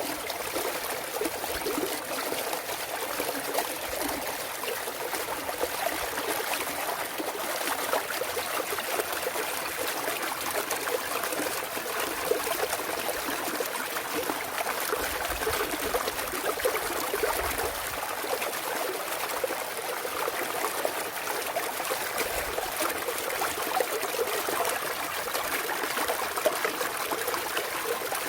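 Clear mountain stream trickling and babbling over rocks, a steady splashing with small gurgles.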